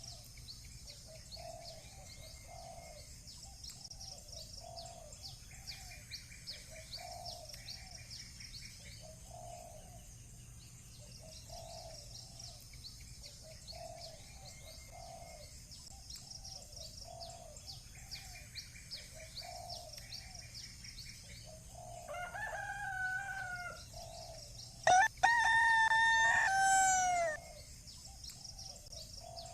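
A rooster crows once near the end, the loudest sound, a long call that drops in pitch as it ends, with a shorter call just before it. Underneath, small birds chirp continuously and short low calls repeat about once a second.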